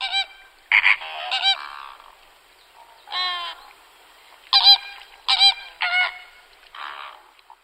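A flock of flamingos honking: short, goose-like honks from several birds, one after another at uneven intervals.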